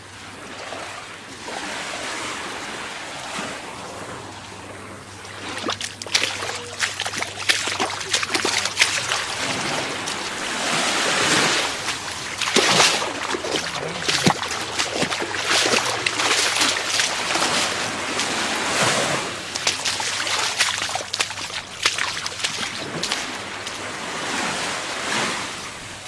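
Gulf surf breaking and washing up the sand, swelling louder with each wave, with wind buffeting the microphone.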